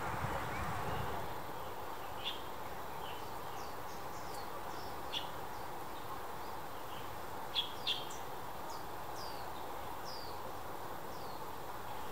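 Small birds chirping: scattered short, high calls, many falling in pitch, with a few louder ones around the middle and a close pair later on, over steady background noise.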